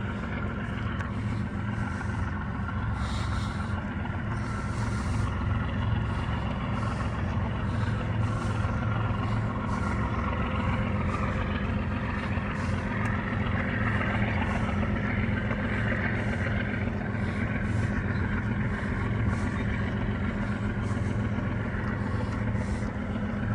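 General Electric diesel-electric locomotive working as the distributed power unit at the rear of a freight train, its diesel engine running steadily under load as the train gets underway.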